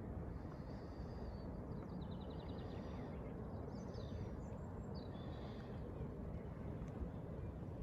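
Birds chirping, with several short calls and one quick trill, over a steady low background rumble.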